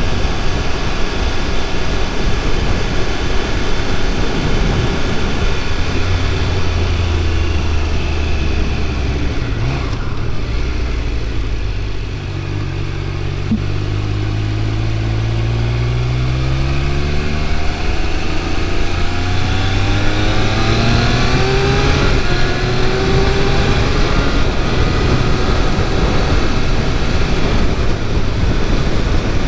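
Triumph Speed Triple 1200 RR's inline three-cylinder engine under way on the road, with wind rush over the microphone. The engine note holds steady, drops about halfway through, then rises in a few climbing pulls as the bike accelerates.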